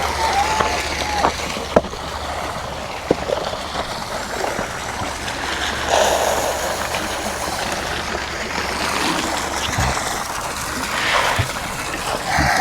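Steady rush of running, splashing water, with a few sharp knocks and a low hum that stops about halfway through.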